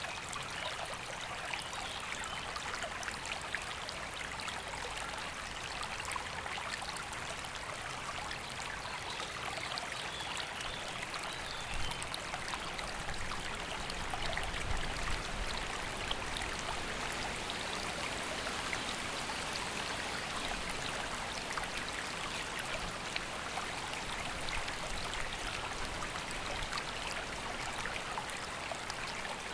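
River water flowing steadily, a continuous rushing babble, with a low rumble swelling briefly about halfway through.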